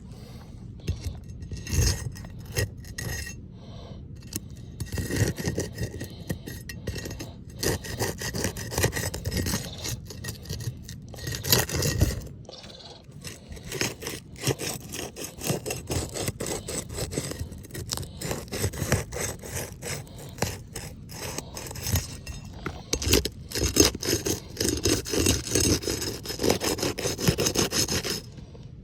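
Repeated, irregular scraping and rubbing against an asphalt roof shingle as it is worked loose for repair, in bursts of quick strokes with short pauses.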